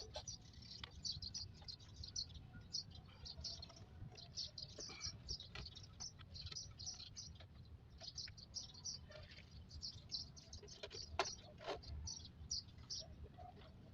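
Small birds chirping over and over in quick, high, short notes, faint against a low background rumble, with a couple of sharp knocks about eleven seconds in.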